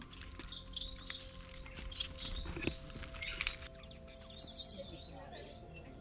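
Birds chirping in short, scattered calls among the trees, with a soft knock about two and a half seconds in.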